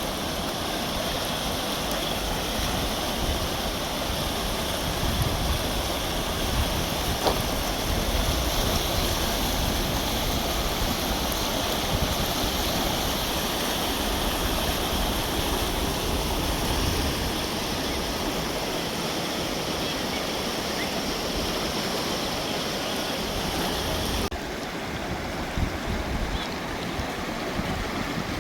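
Glacial mountain river rushing steadily, with wind rumbling on the microphone. About four-fifths of the way through the sound turns duller, its hiss thinning.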